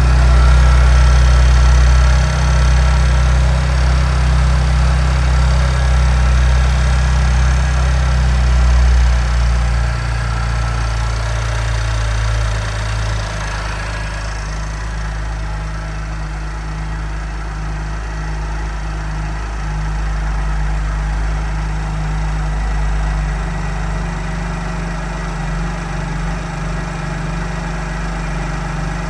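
BMW M2 Competition's twin-turbo inline-six idling just after a cold start. It runs loud at the start, quietens in two steps a little under halfway through, and settles into a steadier idle as the fast cold idle eases.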